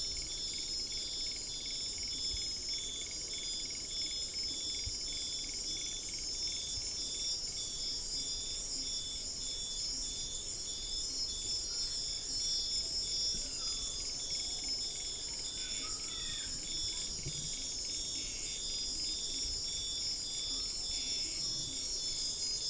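Dense insect chorus: many high-pitched trills layered into a steady wall of sound, one of them pulsing in a regular rhythm.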